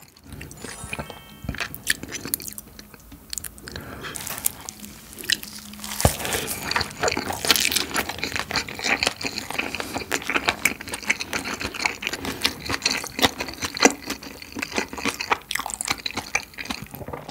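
Close-miked chewing of a steamed kimchi dumpling: a bite, then wet mouth sounds and smacking. Quieter at first, with dense chewing clicks from about six seconds in.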